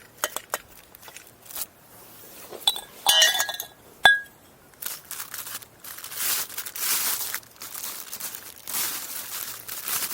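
Metal parts of a camping coffee maker clinking and knocking together as they are handled, with one sharp ringing clink about four seconds in, followed by several seconds of rustling.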